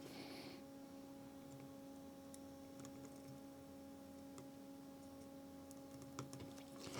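Near silence: a faint steady hum with a few faint, scattered ticks.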